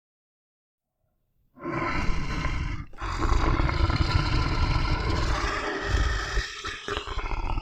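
A large animal's loud, rough call, starting suddenly about a second and a half in, with a brief break near three seconds before it goes on.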